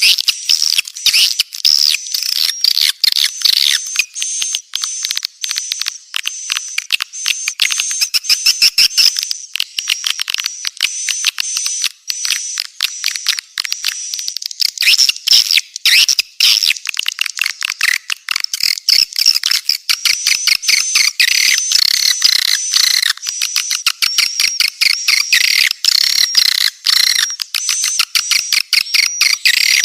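Swiftlets twittering in a dense chorus: rapid, high-pitched chirps and trills overlapping without a break, with no low background noise. It is a swiftlet call recording of the kind played to lure the birds to nest.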